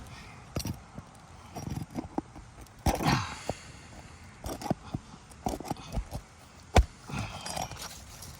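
Roofing work on asphalt shingles as fasteners are pried out with a cat's paw: scattered knocks and taps, with stretches of scraping and tearing, and one sharp knock about two-thirds of the way through.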